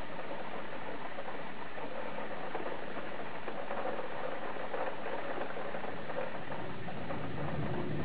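Steady heavy rain pattering during a thunderstorm, a dense hiss of countless drops. A low rumble swells near the end.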